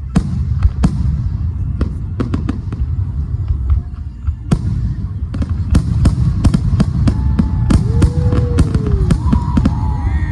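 Fireworks going off: a dense run of sharp bangs and crackles over a continuous low rumble, getting busier about halfway through. In the second half a few whistling tones rise and fall.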